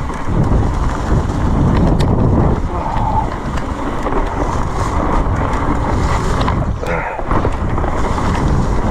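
Wind buffeting the camera microphone over the low rumble of a mountain bike riding fast down a wet, slippery trail, with a couple of sharp clacks from the bike over rough ground.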